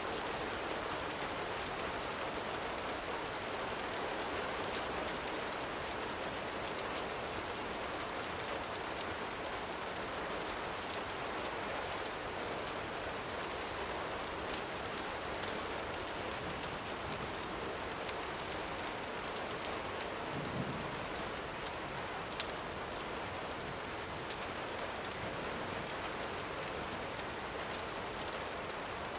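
Steady rain falling, with a few sharp crackles of a campfire scattered through it.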